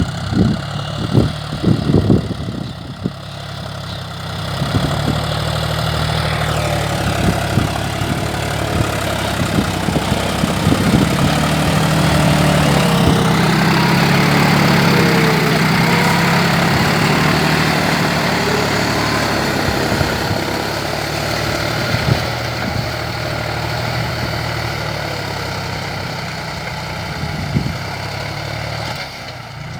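John Deere 5105 tractor's three-cylinder diesel engine running steadily, with a few knocks in the first three seconds. It grows louder about four seconds in and stays steady after that.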